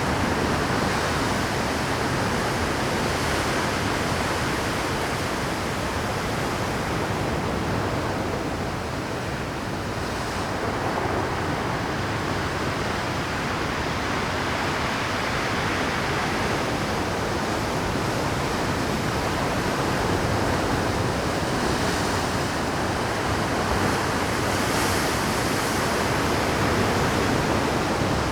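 Rough Pacific surf breaking on a rocky shore at high tide: a continuous dense rush of waves that swells and eases slowly, dipping a little about a third of the way in.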